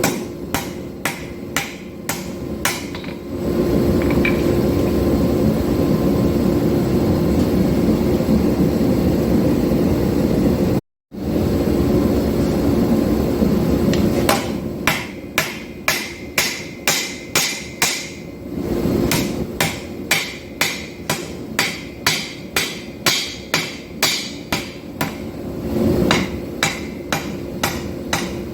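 Hammer blows on hot steel at the anvil while forging a knife, an even rhythm of about two to three strikes a second. In the middle the strikes give way to a steady rushing noise for about ten seconds, cut off briefly by a moment of silence, before the hammering resumes.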